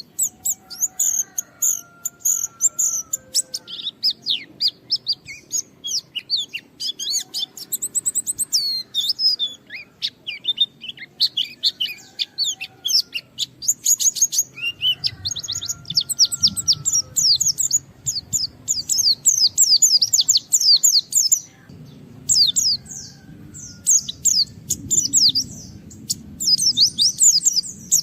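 White-eye (pleci) singing a fast, dense song of high chirps and trills, broken by a few short pauses.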